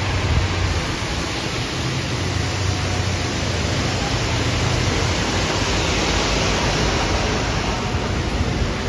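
Scania K230UB bus running: a steady low engine drone under an even rush of road and air noise.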